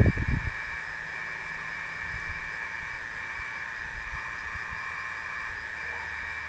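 The tail of a thunder rumble fades out in the first half second. It leaves a steady, high-pitched chorus of night insects.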